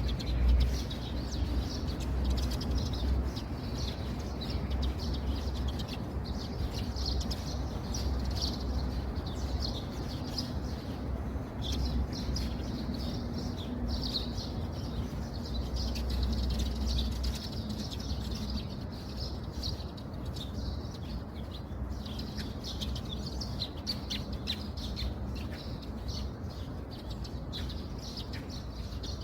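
Birds chirping continuously in a dense chorus of short calls, over a steady background hiss and a low rumble.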